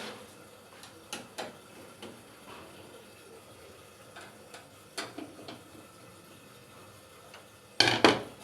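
Scattered light clicks and knocks, then a louder clatter of several hits near the end.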